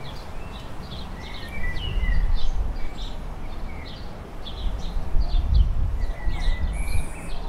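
Small birds chirping again and again, many short high chirps with a few short sliding calls, over a low rumbling noise that swells twice, about two and five and a half seconds in.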